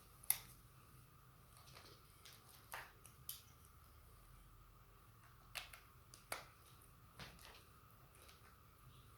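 Scattered light clicks and taps, about six in all, the sharpest about a third of a second in, over a faint steady high hum in a quiet room.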